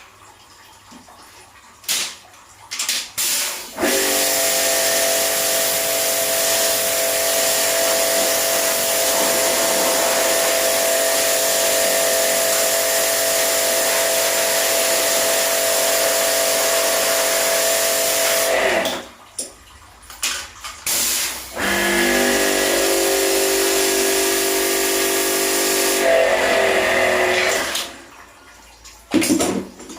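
Small electric pressure washer spraying water, a steady hiss of spray over the hum of its motor-driven pump. It runs in a long stretch of about fifteen seconds, stops, then runs again for several seconds after a short pause.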